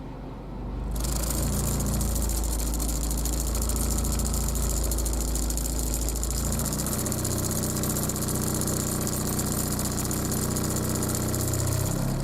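Honda Civic engine running, heard from inside the car, with a heavy low rumble and shake caused by a broken engine mount. The sound gets louder about a second in and changes its tone around seven seconds in.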